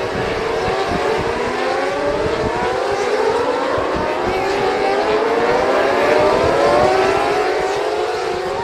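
Racing motorcycles accelerating on track, several engine notes overlapping and rising in pitch again and again as the bikes pull through the gears; loudest near the end.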